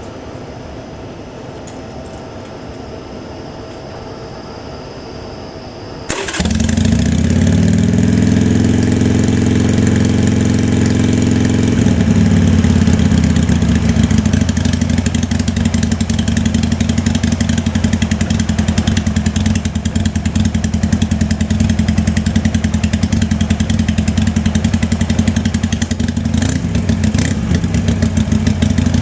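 2003 Harley-Davidson XLH883 Sportster's air-cooled 883 cc V-twin starting about six seconds in, catching almost at once. It runs at a slightly raised idle for a few seconds, then settles into a steady idle.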